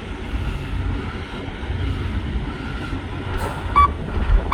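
Semi truck's diesel engine idling with a steady low rumble; near the end a reversing beeper gives one short beep as the truck starts backing.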